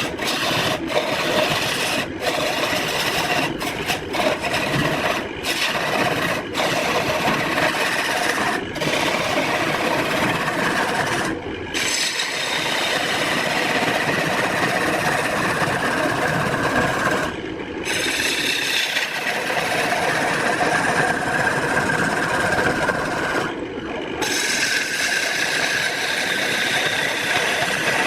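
A tool working wood with a steady rasping, scraping noise, broken by several short pauses.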